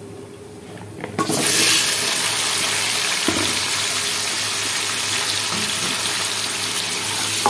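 Raw potato chunks tipped into hot oil with cumin seeds in a wok, setting off a sudden loud sizzle about a second in that then holds steady as they begin to fry.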